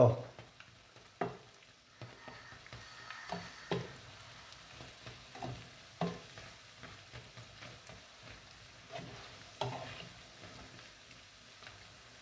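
Sardine fish balls frying in hot oil in a pan with a steady sizzle, while a spatula turning them knocks and scrapes against the pan a handful of times.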